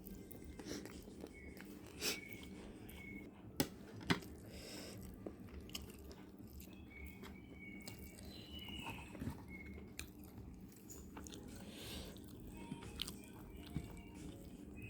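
Close mouth sounds of someone eating fried fish: chewing and biting with small crunches, and a few sharp clicks, the loudest about two and four seconds in.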